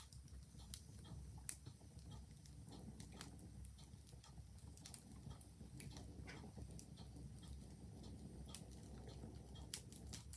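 Wood fire crackling faintly with irregular snaps and two sharper pops, one near the start and one near the end, while a clock ticks.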